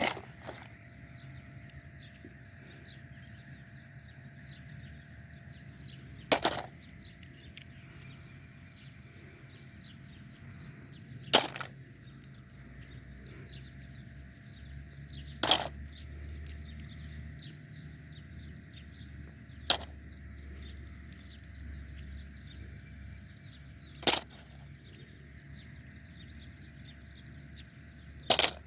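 Calm outdoor nature ambience with a steady high-pitched background chorus, broken by a sharp knock about every four to five seconds, six in all.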